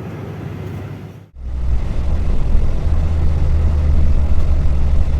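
Dongfeng truck's engine brake engaged, with a loud, steady low drone from the engine in the cab. It comes in after a brief drop-out about a second in.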